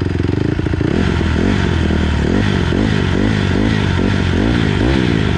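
Dirt bike engine running while the throttle is blipped repeatedly, the revs rising and falling about twice a second in short, gentle twists, as a novice practises throttle control.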